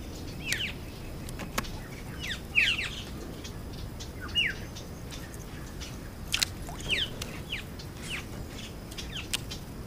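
Birds calling: short chirps that sweep downward in pitch, coming every second or two, with a few sharp clicks in between.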